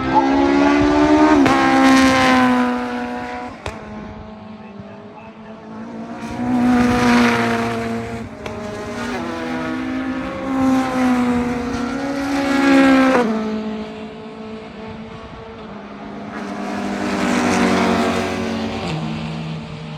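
Racing cars passing one after another on a circuit, engines revving high and dropping sharply in pitch at each gear change, with several swells as cars go by.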